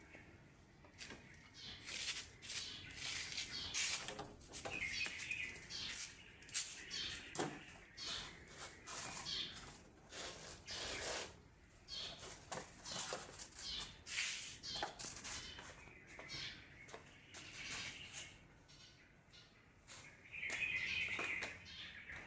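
Small birds chirping now and then in the morning air, over a string of short clicks and knocks.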